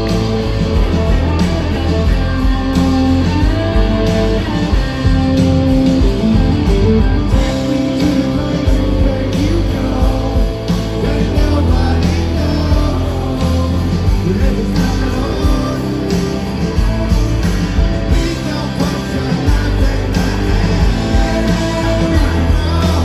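A rock band playing live, with guitars, a heavy low end and singing throughout.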